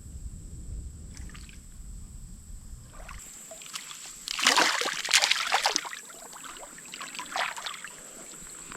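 River water splashing and trickling, with a loud burst of splashing in the middle and smaller splashes later.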